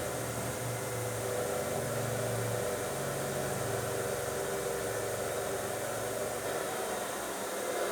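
An engine running steadily under a constant hiss, its low hum wavering slightly without revving up or down.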